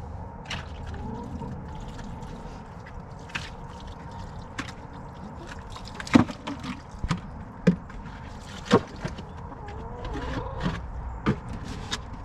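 Chickens clucking now and then, with scattered sharp knocks over a low steady rumble; the loudest knocks come in the middle.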